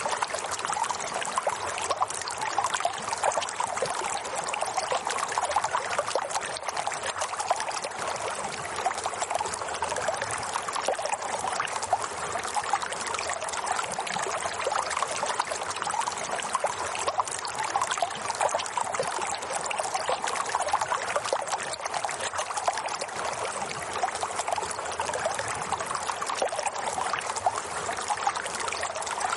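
Water running and trickling steadily, a continuous splashing babble with no break or change.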